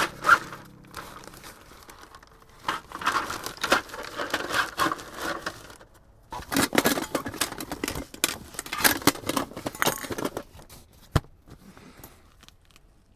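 Crinkling and rustling handling noise with scattered clicks, in two stretches of a few seconds each, like material being crumpled or packed by hand.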